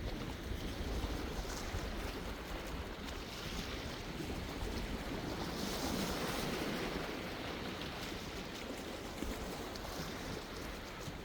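Sea waves washing onto the shore in a steady rushing wash, one wave swelling and breaking most loudly a little past the middle. Wind rumbles on the microphone underneath.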